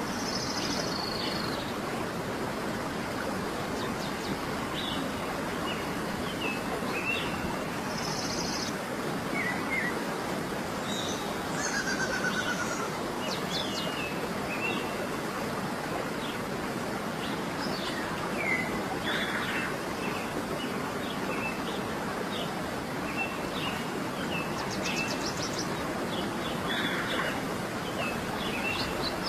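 Birds chirping and calling in many short, high notes scattered throughout, over a steady rushing of flowing water.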